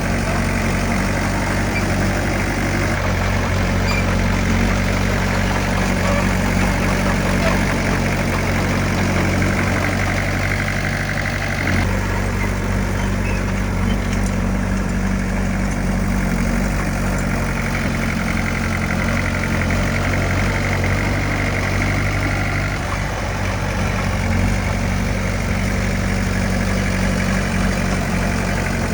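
Heavy earthmoving machine's diesel engine running steadily, its note shifting slightly about twelve seconds in.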